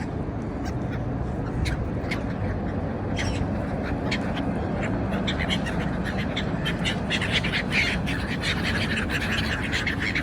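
A flock of seagulls calling, many short squawking calls overlapping and growing busier in the second half, over a steady low background rumble.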